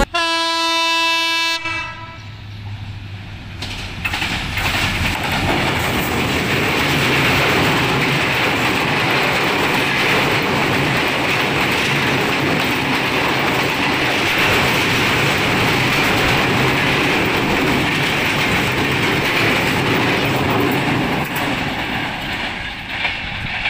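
A train horn blasts one steady note for about a second and a half, then an intercity passenger train's coaches run past over a steel girder bridge with a steady rumble and wheel clatter, easing off near the end as the train moves away.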